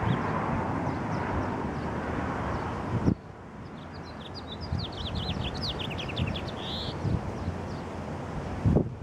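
Wind buffeting the microphone, cutting off abruptly about three seconds in; then a small bird gives a rapid run of high, quick chirps for a couple of seconds.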